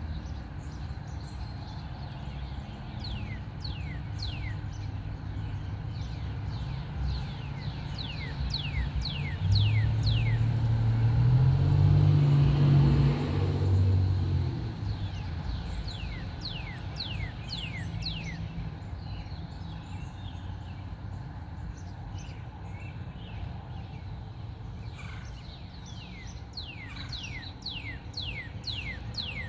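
Birds calling in repeated runs of quick, steeply falling notes over a steady outdoor background. A vehicle passes about ten seconds in, a low rumble that swells and fades over about five seconds and is the loudest sound.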